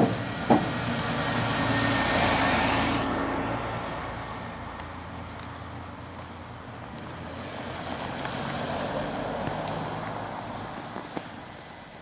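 Two vehicles drive past on the road one after the other, the first loudest about two to three seconds in with a falling swish of tyres as it passes, the second about eight to nine seconds in; two sharp clicks come right at the start.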